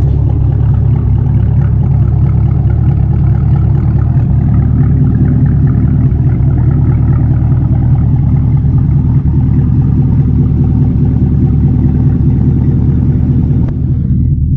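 Chevrolet Camaro SS's 6.2-litre LT1 V8 idling steadily through an AWE Track Edition axle-back exhaust, which removes the mufflers and leaves it essentially straight-piped.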